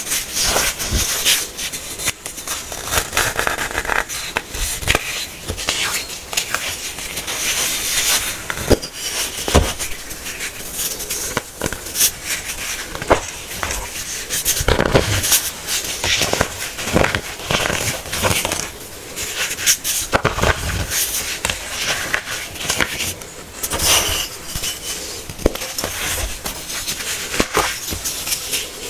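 Hard-packed baking soda being crushed by hand: a dense run of crunching and crackling, with sharp snaps scattered throughout.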